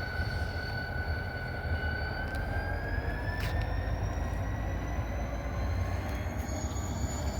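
Freight train rolling past with a steady low rumble and a high whine that rises slowly in pitch from about two seconds in, with a few faint clicks.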